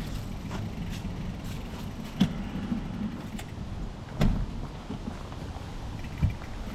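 Specialized Epic Pro mountain bike rolling along a trail: a steady low rumble of tyres and wind, with three sharp knocks about two seconds apart as the bike jolts and rattles.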